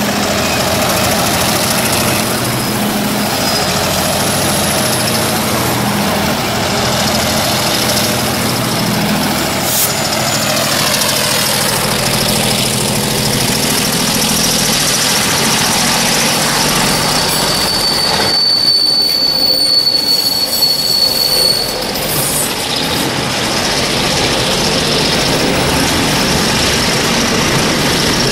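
Diesel freight train running, heard from aboard: steady rumble and clatter of wheels on the rails with the locomotives working. About two-thirds of the way through, a thin high steady wheel squeal rings out for about four seconds, then stops.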